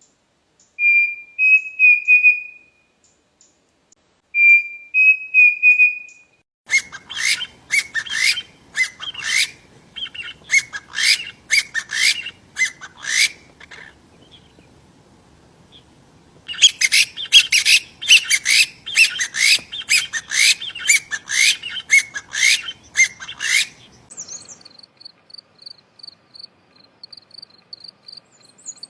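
Songbirds singing: two short whistled phrases, then long runs of rapid, loud chirping with a brief lull in the middle, and a faint, high, fast trill near the end.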